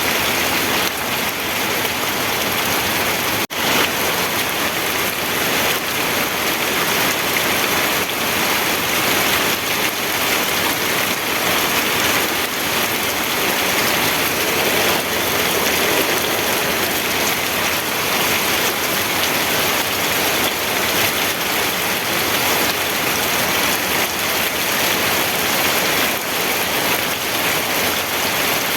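Steady rain falling on surfaces: an even, dense hiss of drops. It drops out for a moment about three and a half seconds in.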